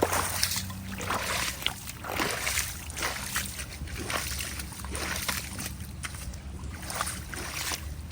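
Feet kicking at debris in shallow flood water at a blocked culvert outlet, splashing and sloshing in irregular strokes about once a second.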